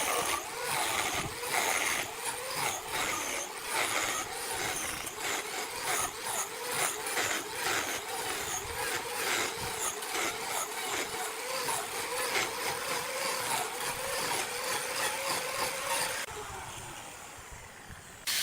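A machine running steadily, with a dense, irregular clatter of knocks and clicks over it; the sound fades out near the end.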